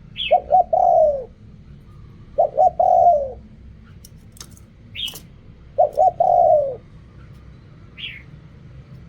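Spotted dove cooing: three phrases of two short notes followed by a longer falling coo, repeated every two to three seconds. Short high chirps from another bird come in between.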